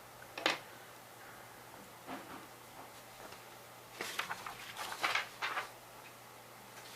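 Drawing on paper: short scratchy strokes, one about half a second in, then a quick run of them from about four to five and a half seconds.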